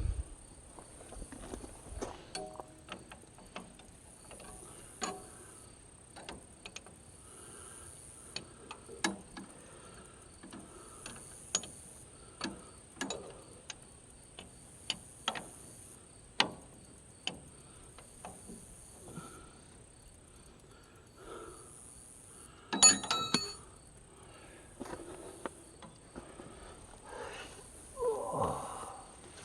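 Hand wrenches clicking and clinking on the Ford 3000 tractor's carburetor and fuel-line fittings, in scattered short knocks, with a louder clatter of metal tools about three-quarters of the way through. Insects chirr steadily behind.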